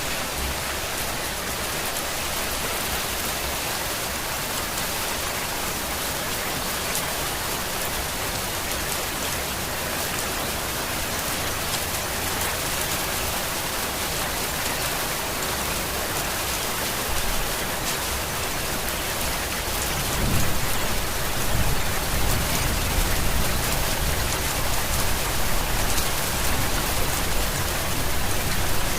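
Steady rain falling, an even hiss with fine patter of drops. About two-thirds of the way through, a low rumble swells in beneath it and carries on.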